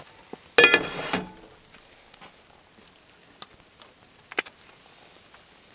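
Metal camp cookware clanking with a brief ringing note about half a second in, then quiet with a few light ticks and a sharp click a little after four seconds.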